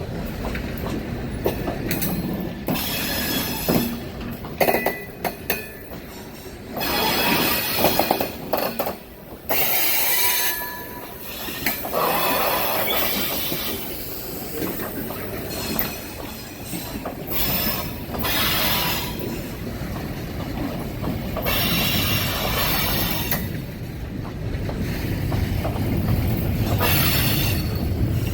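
Freight train rolling past on jointed track, its wheels squealing and clattering in irregular bursts, with a low rumble building near the end.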